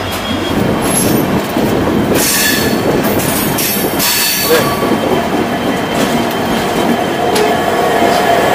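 Passenger train running on the rails: a steady rumble of wheels on track with a few knocks from rail joints, and a wheel squeal that grows near the end.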